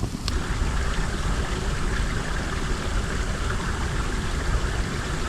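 Small woodland stream running with a steady rushing hiss, over low wind rumble on the microphone.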